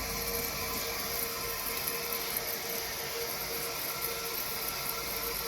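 Toilet tank refilling through its fill valve after a new supply line was fitted: a steady hiss of running water with a faint steady whine, the sign that water is getting through again.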